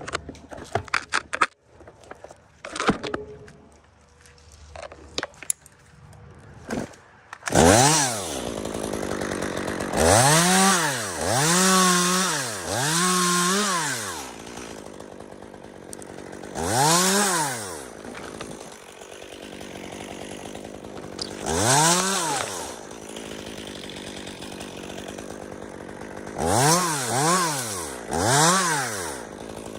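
A few seconds of scattered knocks and clicks, then a chainsaw running from about seven seconds in, revved up and back down about eight times in short bursts, idling between revs. This is a climber's saw working on a dead spruce.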